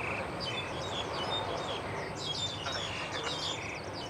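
Birds chirping in many quick, short calls over a steady haze of background noise, the chirping busiest in the second half.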